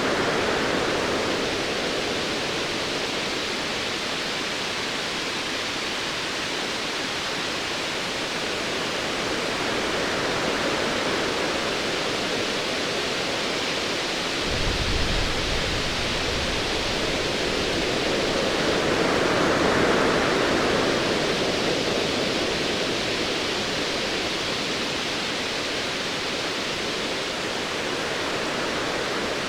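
Ocean waves washing in a steady hiss that swells about a second in and again around twenty seconds. A short, low rumble of distant thunder comes about halfway through.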